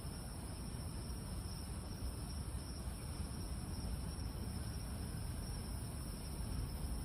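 Crickets and other night insects chirring steadily in several high bands, over a low, constant rumble.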